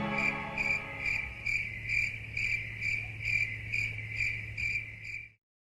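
Cricket chirping in an even rhythm of about two chirps a second over a faint steady low hum, cutting off suddenly near the end.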